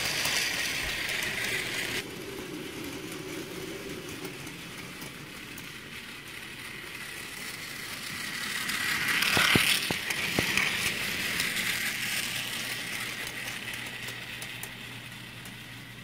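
Two battery-powered Plarail toy trains running on plastic track: a steady mechanical whirr that swells to its loudest about halfway through, with a few sharp clicks there, then slowly fades.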